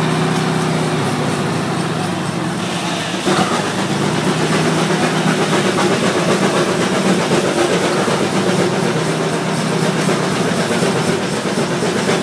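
Keck-Gonnerman steam traction engine running a belt-driven sawmill, with a steady hum. About three seconds in the sound steps up sharply and takes on a fast, even rhythm.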